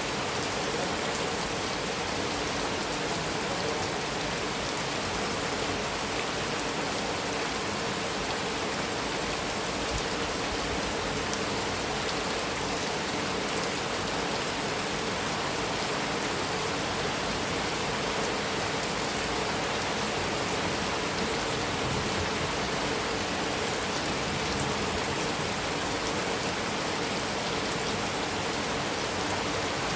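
Heavy rain falling steadily, an even downpour with no single louder strike.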